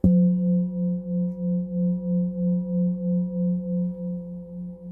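Singing bowl struck once, ringing on with a low tone and fainter higher overtones that waver in loudness about two to three times a second while slowly fading.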